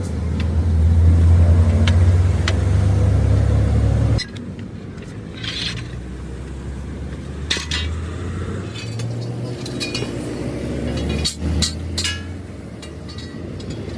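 A truck's engine running steadily for about four seconds and cutting off abruptly, followed by scattered metallic clinks and knocks of tools on metal.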